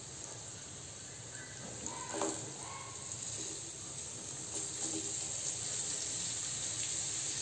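Steady faint sizzle of paneer cubes and curry leaves frying in oil on low heat in a nonstick pan. About four seconds in, chopped spring onions are tipped off a plastic cutting board into the pan.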